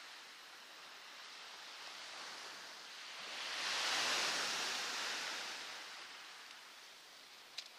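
Even hiss of rain and sea surf, swelling for about two seconds in the middle, with a faint click near the end.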